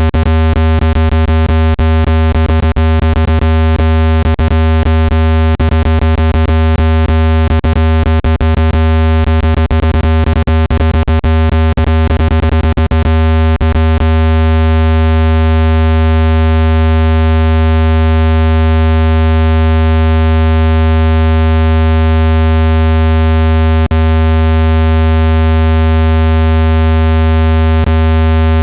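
Speaker water-ejection tone: a loud, steady, low-pitched synthesized hum with a stack of overtones, played to vibrate water out of a phone speaker. It is peppered with many crackling clicks that thin out about halfway through, leaving only an occasional click.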